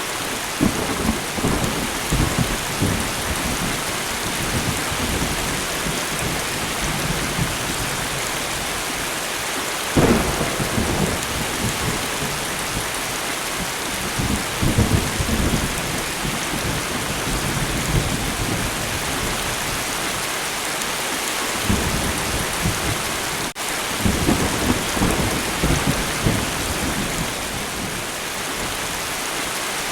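Steady rain falling, with thunder rumbling low several times and one sharper clap about ten seconds in.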